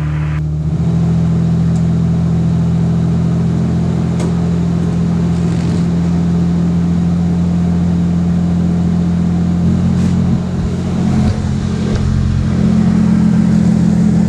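Car engine running at a steady low idle, its note stepping up and getting a little louder about two-thirds of the way through as it is given some throttle.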